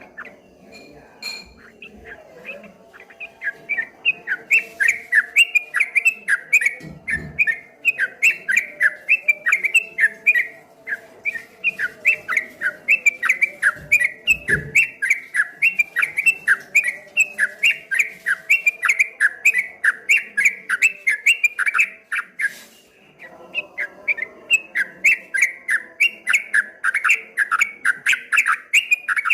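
Yellow-vented bulbul (trucukan) singing its 'ropel' song: a fast, rolling run of repeated chirping notes, several a second, breaking off briefly about 22 seconds in and then resuming.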